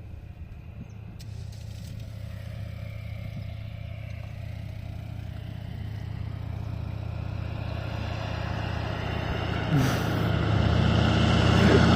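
Small plane's engine running with a steady hum, growing steadily louder and brighter throughout, as with power coming up.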